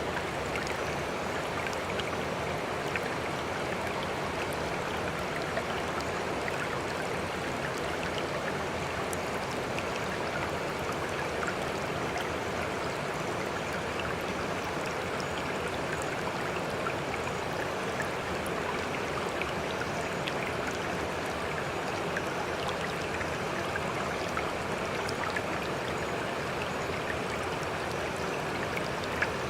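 Water flowing steadily in a stream, an even rushing babble with a few faint ticks of splashing here and there.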